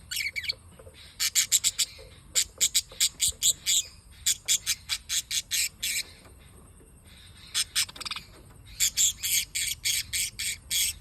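Small pet parrots kept as love birds, chirping and squawking in several bursts of quick, sharp, high calls with short pauses between them.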